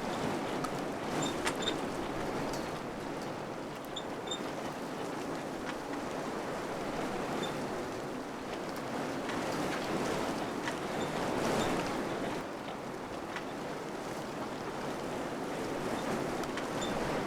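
Wind blowing in gusts, swelling to its strongest around the middle and easing off again, with scattered light ticks and clicks.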